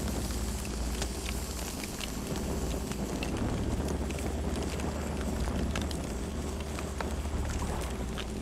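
Campfire burning: a steady low rumble of flames with scattered sharp crackles and pops throughout.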